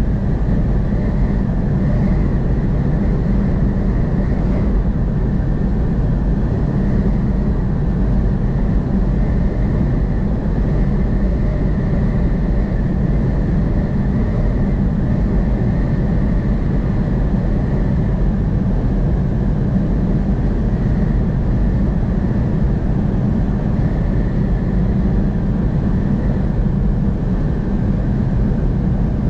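Steady road and engine noise of a vehicle driving on the highway, a constant low drone with no breaks.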